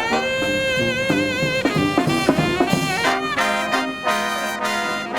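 Small marching brass band of trumpets, trombones and saxophones playing a jazzy tune. A long held melody note wavers with vibrato, then short, clipped chords start about three seconds in.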